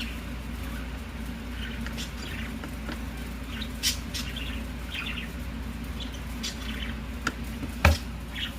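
Budgies chirping softly and intermittently over a steady low hum, with a few sharp clicks; the loudest click comes near the end.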